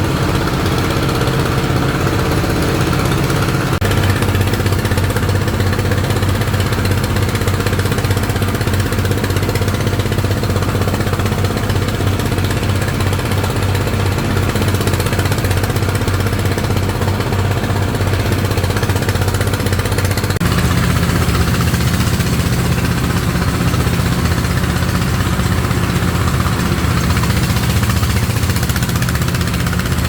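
A small engine running steadily throughout, its note dropping slightly about 4 seconds in and rising again about two-thirds of the way through.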